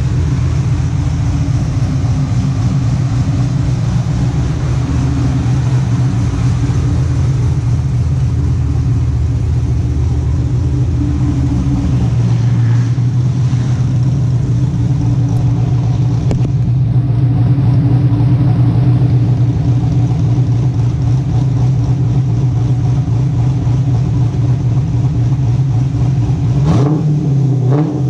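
Chevrolet Camaro Z28's V8 running at idle through its exhaust, a steady deep note, with a brief rev of the throttle near the end.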